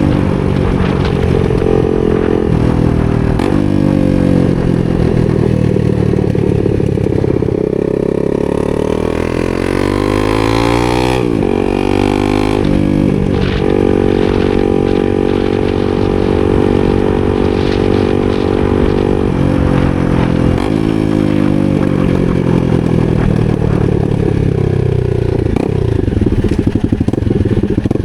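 250 cc supermoto motorcycle engine under way, its pitch rising and falling several times as it revs up and eases off, and holding steady for several seconds around the middle.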